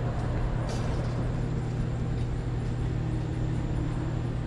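Microwave oven running with a steady low hum while it heats a smartphone inside.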